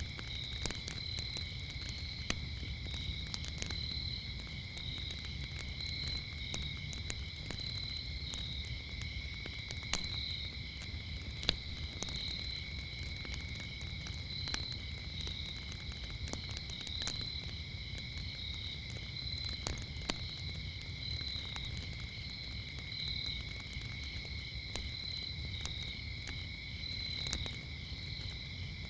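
Wood fire crackling with scattered sharp pops, two of them standing out about ten and eleven seconds in, over a steady chorus of crickets chirping at two high pitches, the higher one pulsing. A low rumble lies underneath.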